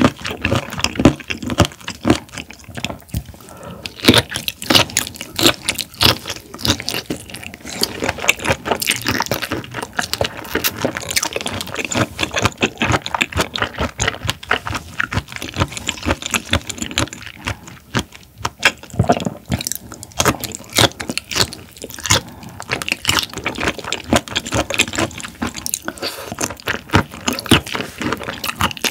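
Close-miked wet chewing of raw shrimp: soft, squishy mouth sounds with many quick smacking clicks.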